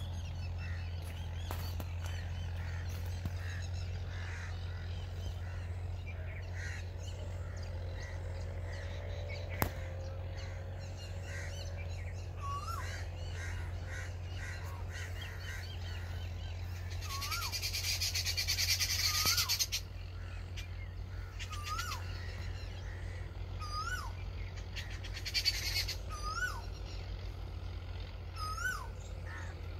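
Birds calling: one short whistled call that rises and then drops sharply, repeated every few seconds, over many smaller chirps. A loud, high, hissing buzz lasts about two seconds near the middle, and a low steady hum sits under it all.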